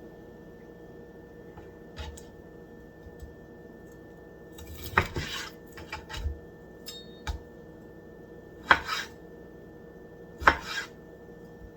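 A kitchen knife cutting raw chicken into chunks on a cutting board: several sharp knocks of the blade on the board, a second or more apart.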